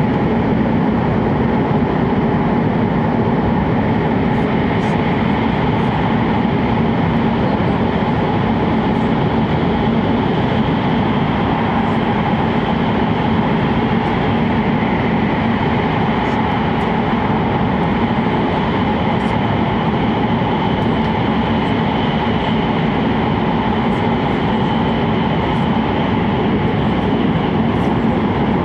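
Interior running noise of an E7-series Hokuriku Shinkansen train in motion, heard inside the passenger car: a loud, steady rushing hum with a few faint steady tones over it and no change in level.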